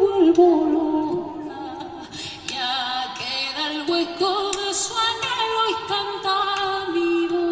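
Female voice singing a melody with other vocal lines layered in harmony beneath it, in a largely a cappella texture.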